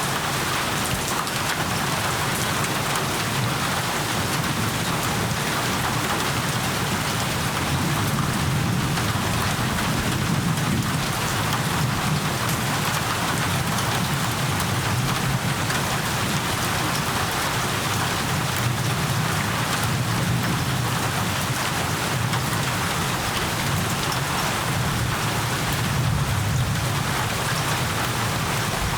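Steady rain falling, with a low rumble of thunder underneath that swells now and then.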